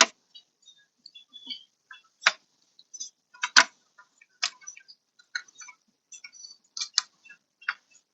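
Irregular sharp plastic clicks and knocks of a car wiring connector being fumbled and pushed by hand onto its socket in a door panel, some light and a few sharper, about a dozen in all.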